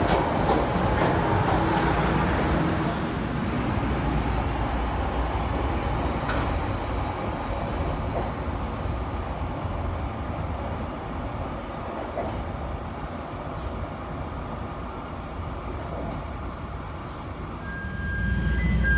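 Chicago 'L' rapid-transit train running past a station platform: a steady rumble of wheels and traction motors that slowly fades, then swells again near the end, when a steady high tone comes in.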